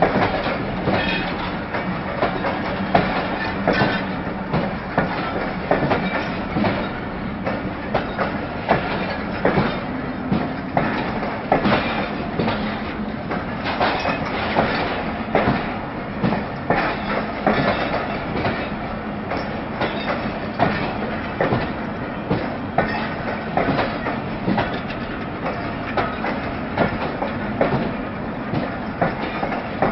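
Pakistan Railways passenger coaches rolling past on the rails, their wheels clicking and knocking over rail joints in an uneven clatter, with a low steady hum underneath.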